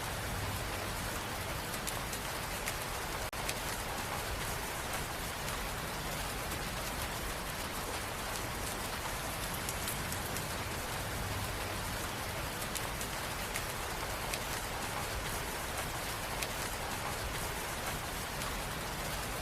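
Steady rain falling, an even hiss with scattered drop ticks, and a momentary dip in level about three seconds in.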